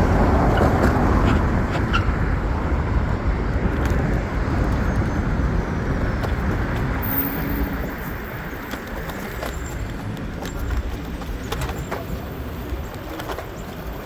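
Road traffic noise: a vehicle passing close, loudest at the start and fading about eight seconds in, with scattered small clicks and knocks.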